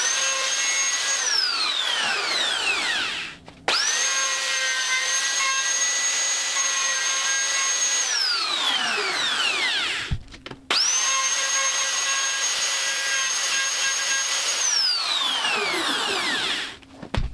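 Electric wood router run three times in short bursts. Each time the motor spins up with a quick rising whine, holds a steady high whine while it cuts the wood, then winds down with a falling whine once switched off.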